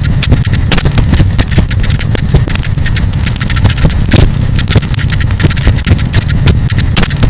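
Campfire crackling: a dense, irregular stream of sharp pops and snaps over a steady low rumble. A short high chirp comes and goes through it.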